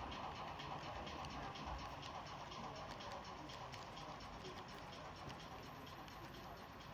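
Model DR 50 steam locomotive with a Henning sound decoder running on the layout: a fast, regular ticking over a soft hiss, slowly growing fainter.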